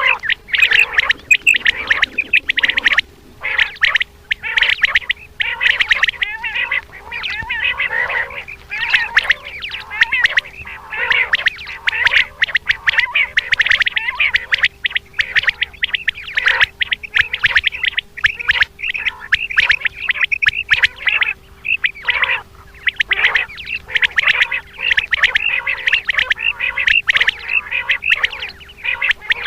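Many common quail calling at once: a dense, unbroken chatter of short, quick calls. This is a female quail call recording of the kind played to lure quail. A faint steady hum runs underneath.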